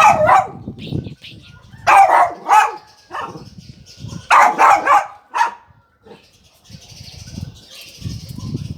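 Dog barking in short bursts, about four times over the first five and a half seconds.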